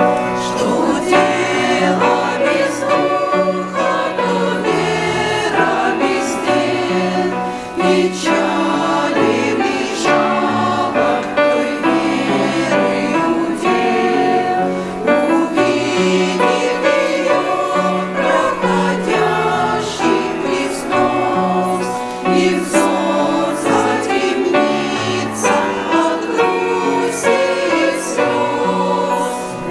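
Choir singing a Christian hymn in several parts, with sustained held chords.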